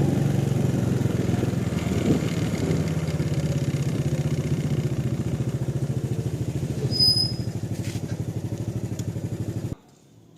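An engine running steadily close by, with an even low pulsing throughout; a brief high beep and a click come about seven seconds in, and the sound cuts off abruptly near the end.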